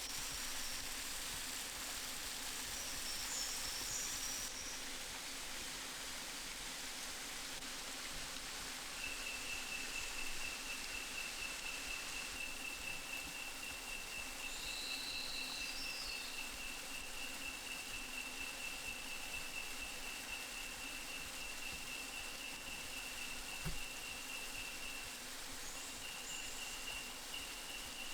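Rainforest ambience: a steady, high insect trill, like a cricket's, sets in about nine seconds in and runs most of the way through over a background hiss, with a few short, higher chirps on top.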